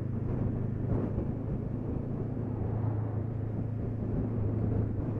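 A Honda CB500X's parallel-twin engine with a Staintune exhaust, running at a steady, unchanging pitch.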